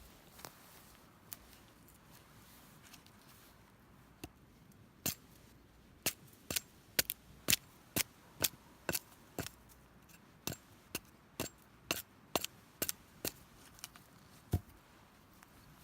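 A run of short, sharp clicks or snaps, irregular at about two a second. They start a few seconds in, and one heavier knock comes near the end.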